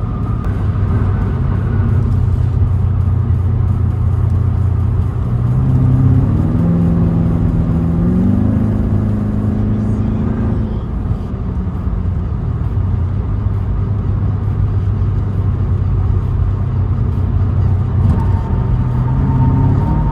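Car engine and exhaust droning steadily while driving. About six seconds in, the revs climb for a few seconds under acceleration, then settle back to a cruising drone.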